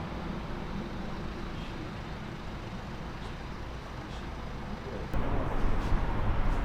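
Large truck engine running with a steady low rumble that suddenly gets louder about five seconds in.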